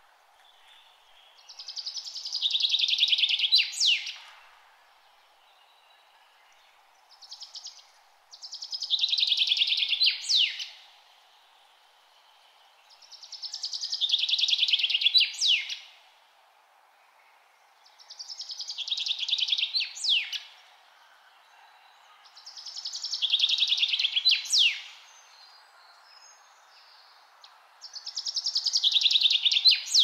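A songbird singing the same song over and over, six times about five seconds apart. Each song is a fast trill of about two seconds that swells and ends in a quick sharp note. A faint steady hiss lies underneath.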